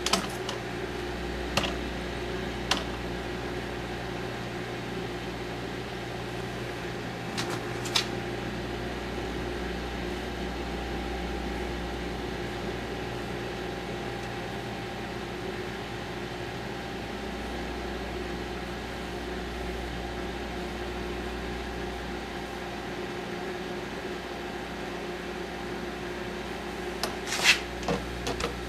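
Microwave oven running with a steady hum as it heats a bar of soap wrapped in packing tape, with a few short clicks here and there and a small cluster of them near the end.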